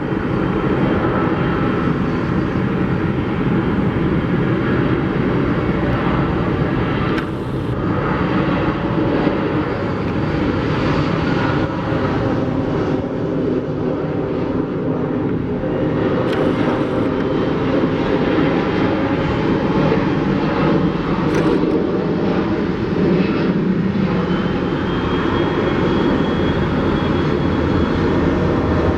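Jet airliner's engines running loud and steady, with a faint rising whine near the end.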